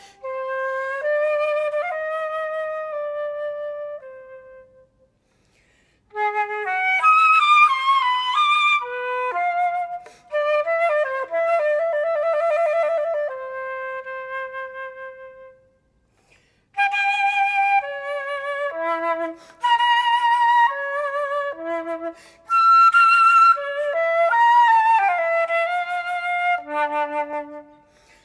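Solo flute playing a Baroque piece as a single melodic line of moving and held notes, with no accompaniment heard. The phrases break off twice into brief silences, about five seconds and sixteen seconds in.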